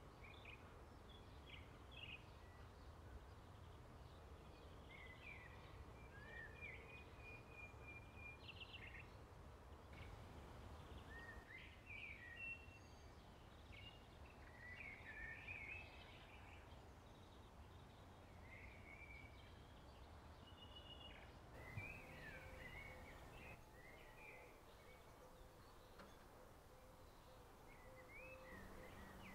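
Faint outdoor birdsong: many short chirps and whistled phrases come and go over a steady low background rumble.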